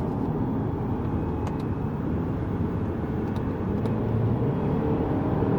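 Lexus GS200t's 2.0-litre turbocharged four-cylinder engine running at speed under steady throttle through a fast corner, with tyre and road noise. It grows slightly louder near the end.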